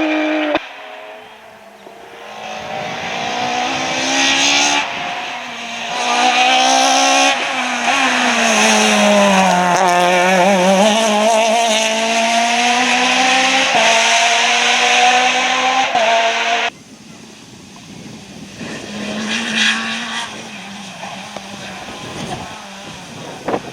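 Rally car engines at full throttle on a stage: an engine climbs in pitch through a run of gear changes, drops as the car slows about ten seconds in, then pulls hard again. The sound cuts off abruptly twice, giving way each time to a quieter, more distant engine rising and falling.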